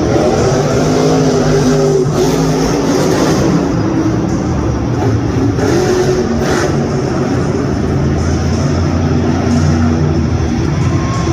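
Monster truck's supercharged V8 engine running loud and revving, its pitch rising and falling.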